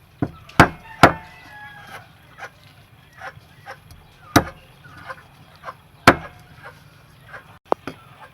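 Knife or cleaver chopping fish on a cutting board: irregular sharp strikes, the hardest about half a second and a second in, again around four and six seconds and twice in quick succession near the end, with lighter taps between.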